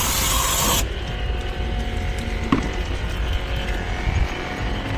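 High-pressure water jet from a jet-washer spraying with a loud hiss, cutting off suddenly about a second in. After that a steadier, quieter machine hum carries on.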